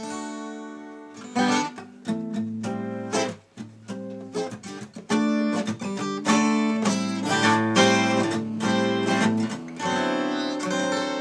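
A plucked string instrument strummed in chords, a new chord struck about once a second and left to ring.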